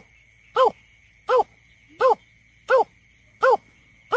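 Greater painted-snipe calling: a steady series of short, low hooting notes, about three every two seconds, each rising and falling in pitch. It is the call played back as a lure for bird surveys.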